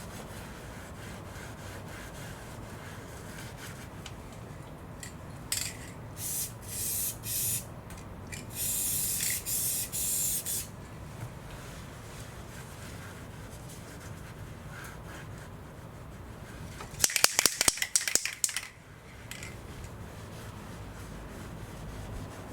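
Cleaning spray hissing in a few short bursts, then one longer hiss of about two seconds, during engine-bay cleaning. Later comes a quick run of loud clicks.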